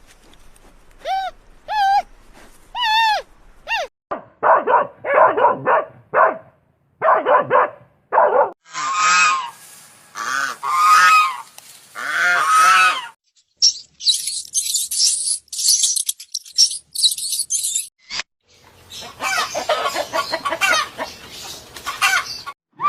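A run of loud bird calls, honks and squawks like domestic fowl, in separate bouts: a few wavering pitched calls first, harsh squawking, a stretch of shrill high-pitched calls in the middle, then more harsh calls.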